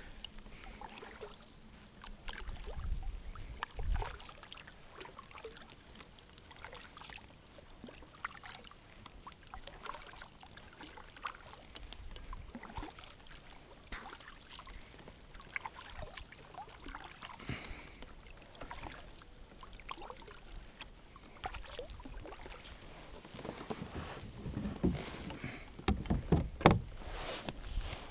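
Handling noises aboard a fishing kayak: scattered light clicks and knocks, with low thumps about three seconds in and again near the end.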